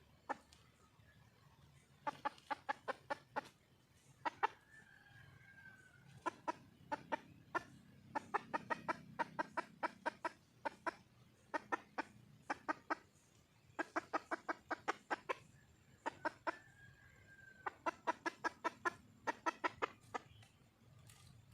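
Wild junglefowl hen calling for a mate: quick runs of sharp clucks, about five or six a second, in bursts of several at a time. Twice it gives a longer, slightly falling drawn-out note.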